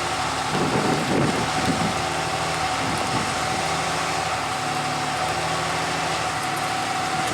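An engine idling steadily, with a steady higher whine running over it and some rougher noise in the first couple of seconds.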